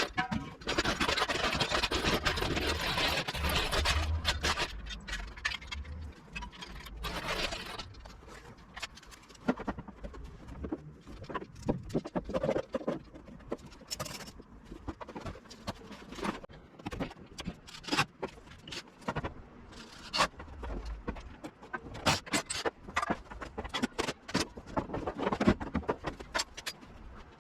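Loud scraping for the first several seconds, then a long run of scattered sharp knocks and clanks.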